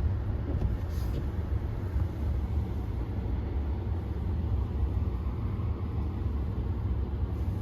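Steady low rumble of a car heard from inside the cabin: engine and road noise while driving in slow snowstorm traffic.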